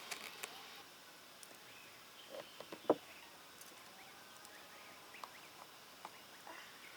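Faint farmyard poultry calling here and there, with one short sharp sound, the loudest, about three seconds in.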